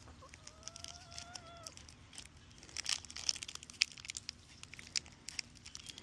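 Trading cards and foil booster-pack wrappers being handled, a run of crisp crinkles and clicks that fills the second half. Near the start an animal gives one drawn-out, slightly rising call lasting about a second and a half.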